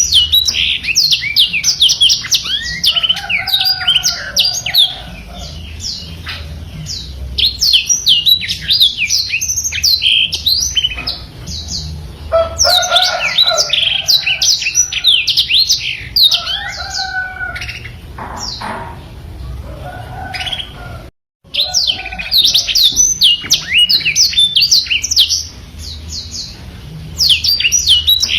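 Black-throated canary (blackthroat) singing long, fast rolling phrases of rapid high twittering notes with some lower warbled notes mixed in, separated by short pauses. The song cuts out completely for a moment about two-thirds of the way through.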